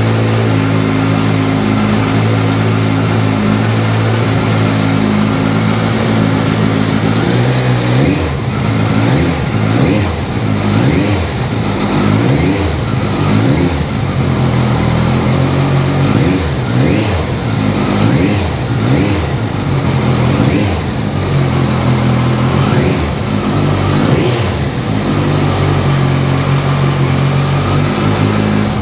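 Kawasaki Versys 1000's inline four-cylinder engine running through an aftermarket Delkevic exhaust with a carbon can. It idles steadily, then is revved in a long series of quick throttle blips for about thirteen seconds, each rising and falling, before settling back to idle.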